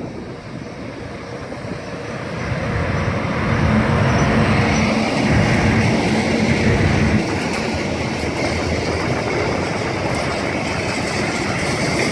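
Slow train passing close by. The locomotive's running noise swells and drops back sharply about seven seconds in. After that the wagons roll past with steady wheel-on-rail noise.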